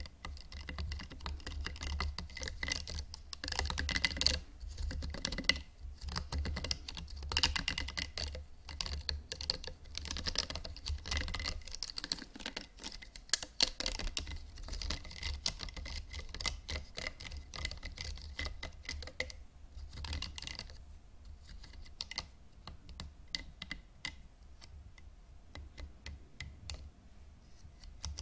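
Hairbrushes handled close to the microphone, tapped and scratched in a dense, irregular patter of small clicks and scratches that thins out about two-thirds of the way through. A low hum runs underneath.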